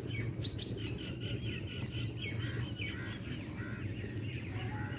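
Small birds chirping, a quick run of short high calls repeated throughout, over a steady low hum.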